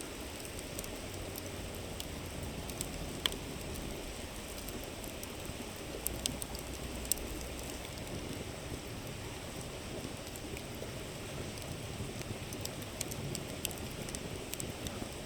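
A river rushing steadily over stones, with a wood campfire crackling and giving scattered sharp pops over it.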